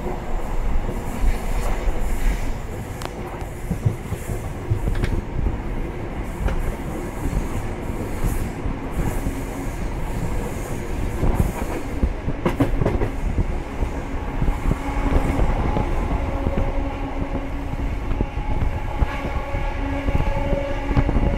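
Inside a coach of a Grand Central HST125 (Class 43 power cars) accelerating up to full speed. The wheels rumble steadily on the rails and click over the track. A steady hum joins from about halfway through.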